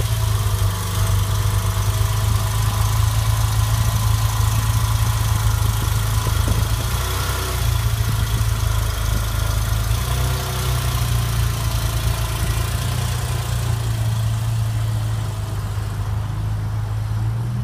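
2014 Porsche 911 Carrera 4S's flat-six engine idling steadily, its exhaust a low, even note.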